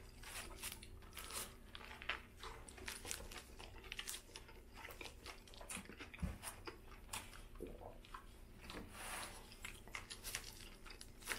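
A man bites into a Burger King Whopper and chews it close to the microphone: faint, irregular crunches, wet mouth clicks and smacks.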